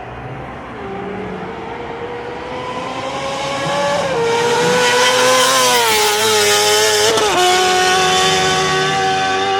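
Sport-bike engine revving at high rpm, getting louder as its pitch climbs, with a few brief dips in pitch near the middle like gear changes, then holding a steady high note.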